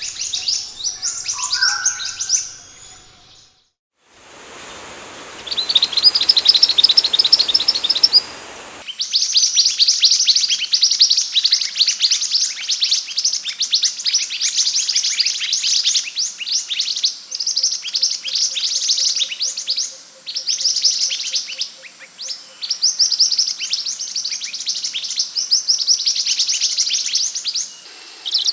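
Scarlet minivet (sepah hutan) singing: rapid runs of high, thin chirps. The song breaks off briefly about four seconds in, returns over a hissy background, and from about nine seconds on comes as near-continuous bursts of quick chirps.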